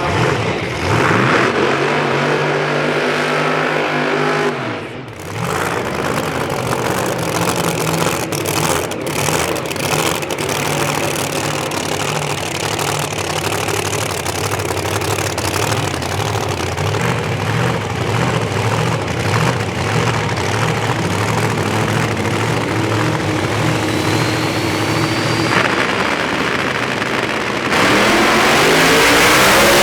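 Drag race car engines running and revving. Near the end one revs up loudly, rising in pitch.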